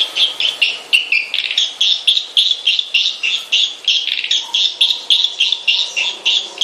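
Swiftlet lure call: swiftlets chirping in a fast, unbroken twitter of short, high chirps, about four or five a second. This is the kind of call played at swiftlet houses to draw the birds in to roost.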